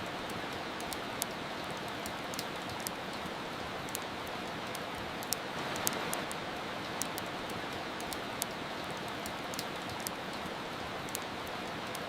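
Steady hiss of soft rain, with irregular sharp pops and crackles from a wood fire burning in a fireplace, a few each second.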